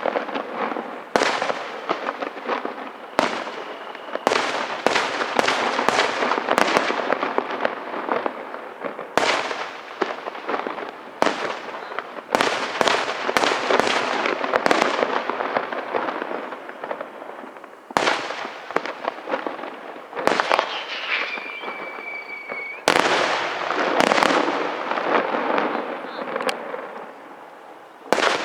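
Aerial fireworks display: a rapid run of shell bursts with dense crackling between them. About two-thirds of the way through, a high whistle dips slightly in pitch and holds for about two seconds before a burst.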